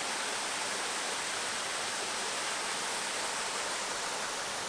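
Small waterfall on a stream, water falling and splashing in a steady, even rush.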